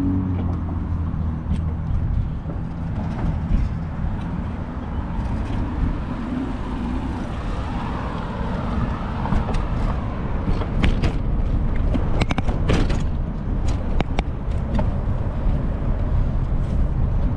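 Wind rumbling on the microphone and street traffic noise during a bicycle ride, with scattered sharp clicks and rattles, thickest around twelve seconds in.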